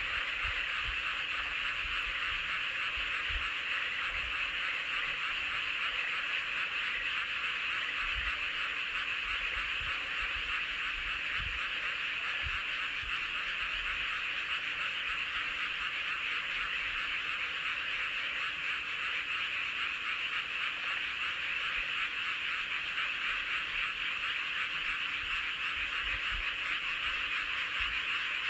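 Dense chorus of many paddy frogs calling at once, their calls overlapping into a steady, unbroken din, with occasional faint low bumps.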